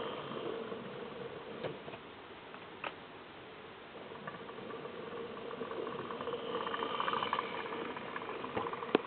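Hornby OO gauge Toby the tram engine model running on the track pulling a short train, its small electric motor whirring steadily, with a few light clicks. The whirr swells louder about six seconds in.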